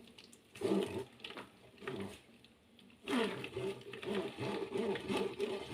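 Blended lemon pulp being worked through a mesh strainer: a few short scrapes, a brief pause, then steady rhythmic scraping from about three seconds in.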